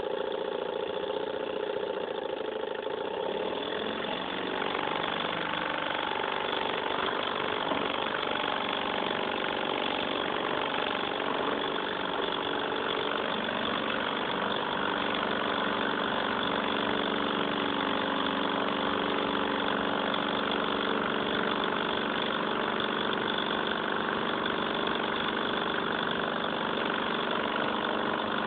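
Small model Stirling engine running steadily with a mechanical whirr and hum. Its pitch shifts slightly a few seconds in and again about halfway through, and it grows a little louder.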